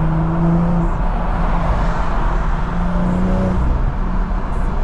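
Car driving at a steady pace, heard from inside the cabin: a steady engine drone under road and wind noise.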